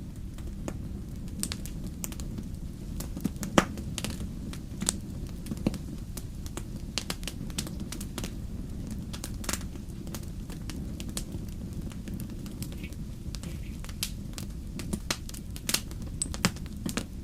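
Wood fire burning in a fireplace: irregular sharp crackles and pops over a steady low rumble, with the loudest pop about three and a half seconds in and a flurry of pops near the end.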